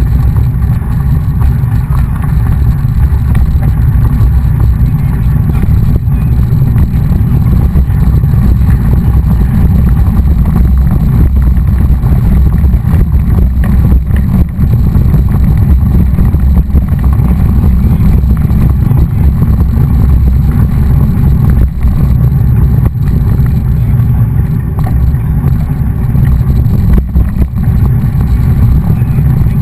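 Steady, loud low rumble of wind buffeting the microphone of a camera carried on a moving mountain bike, mixed with tyre and road noise.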